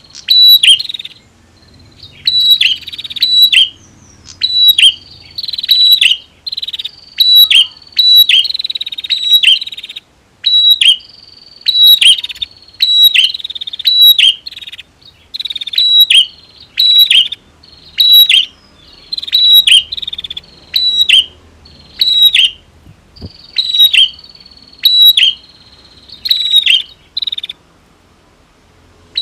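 Prinias (prenjak) calling: loud bursts of sharp, clicking chirps that sweep down in pitch, repeated roughly once a second, some bursts led by a thin high whistle, with brief pauses between runs.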